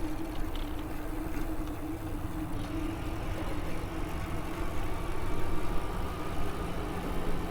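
Electric bike's motor humming steadily with a constant pitch while riding, over a steady low rumble.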